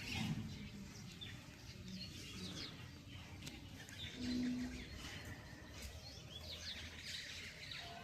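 Many birds chirping: short, quick, high calls overlapping through the whole stretch, with a brief low steady tone a little past halfway.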